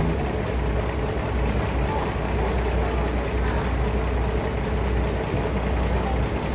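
Sawmill machinery running steadily: a continuous low mechanical hum with a steady mid-pitched tone over a rushing noise.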